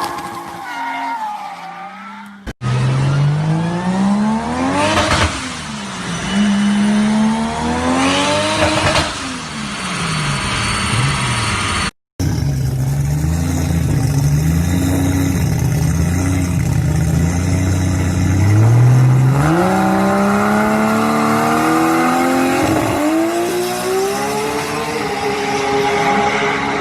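Car engines revving and accelerating hard across several spliced clips, the engine note repeatedly rising and dropping. About halfway through, an engine holds a steady deep note, then climbs in pitch as it pulls through the revs.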